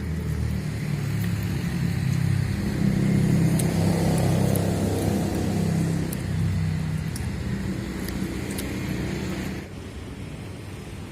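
A motor vehicle's engine running, growing louder over the first few seconds and easing off, then dropping away suddenly near the end. A few faint sharp clicks sound over it.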